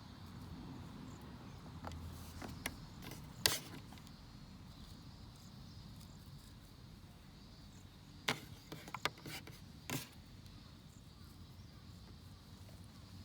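A few sharp wooden knocks and snaps of firewood being handled or broken: one loud crack about a third of the way in and a quick cluster of knocks past the middle, over a low steady outdoor background.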